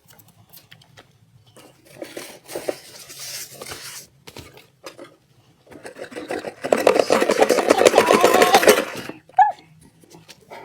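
A gift box being opened by hand: scattered rustles and knocks, then a loud, rapid tearing for about two seconds past the middle.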